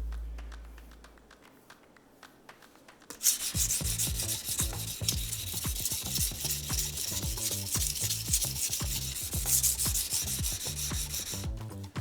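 Steel knife blade being ground on a wet whetstone: a honyaki fugu-hiki knife pushed back and forth in quick, continuous gritty strokes. The strokes start about three seconds in and stop just before the end, after a low boom fades out at the start.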